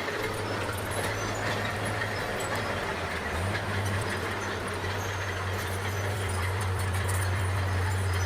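Bulldozer's diesel engine running steadily with a strong low drone, over a constant rattle from the machine, growing slightly louder near the end.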